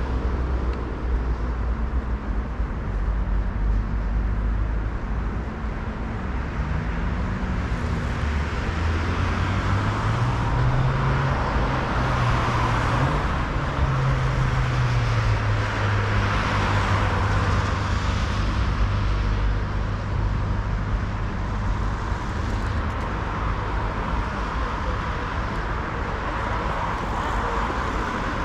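City road traffic: a steady rush of tyres and engines, with one vehicle's engine rising in pitch about eight seconds in and holding a steady note for several seconds before fading back into the traffic.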